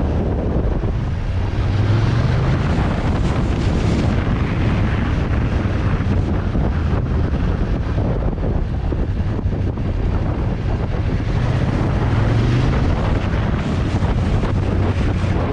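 Heavy wind buffeting the microphone on a moving motorcycle, with the engine's low hum underneath rising in pitch twice as it accelerates, about two seconds in and again near twelve seconds.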